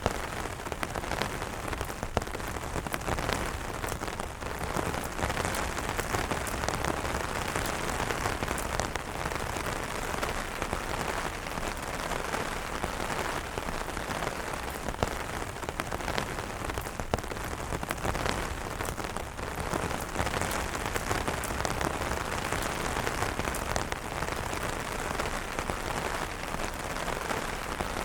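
Steady rain drumming on umbrella fabric: a dense patter of drops with many distinct sharp taps over a continuous hiss.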